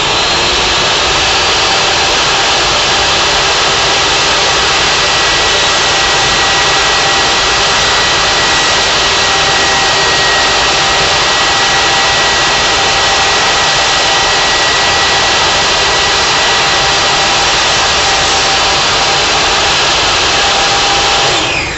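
Electric woodworking saw running at full speed: a loud, steady whirring with a thin high whine. It is switched off near the end and winds down.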